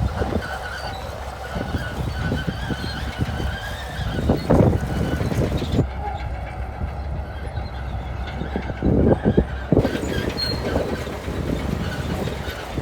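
Shantui crawler bulldozer working: a steady diesel engine rumble with the squeal and clank of its steel tracks, and a few heavier clanks about four seconds in and again near nine seconds.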